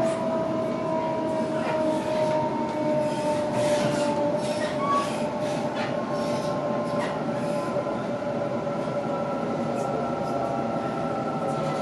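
Sydney Trains Waratah electric train running between stations, heard inside a carriage: a steady rumble of wheels on rail with a few scattered clicks, under a motor whine whose tones drift slowly lower, with another tone rising near the end.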